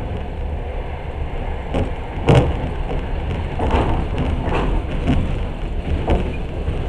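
Passenger train running on rails, heard from inside a carriage: a steady low rumble with a few sharp clanks and knocks, the loudest a little over two seconds in.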